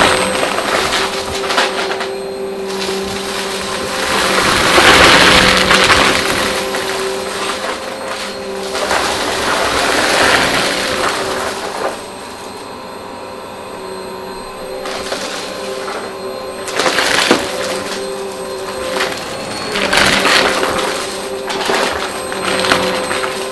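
Vacuum cleaner running: a steady motor whine under surges of rushing suction noise that swell and fade every few seconds as the machine is worked, with a quieter stretch partway through.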